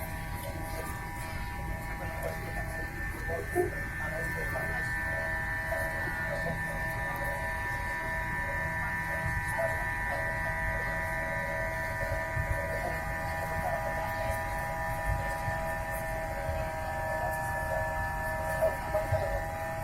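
Airbus A321 engines heard inside the cabin: a steady whine of several held tones over a low rumble.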